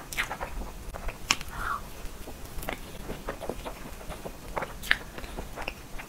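Close-miked mouth sounds of eating a soft matcha cake roll: wet chewing with an irregular run of short lip smacks and clicks, two of them louder, about a second in and near the end.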